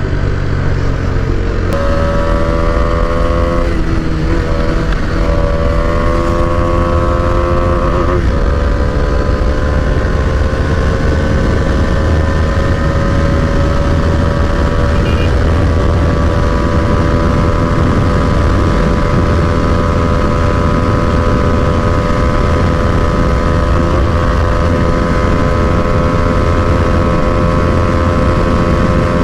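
Bajaj Dominar 250's single-cylinder engine accelerating hard through the gears, with upshifts about 4 and 8 seconds in, then pulling slowly higher in top gear toward top speed. Heavy wind rumble runs underneath.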